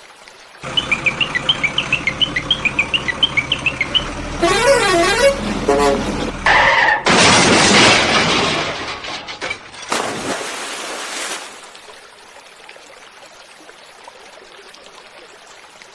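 A string of vehicle sounds: a rapid, even putter, then a warbling horn that slides up and down in pitch, then a loud hissing blast and a shorter burst, after which it goes quiet.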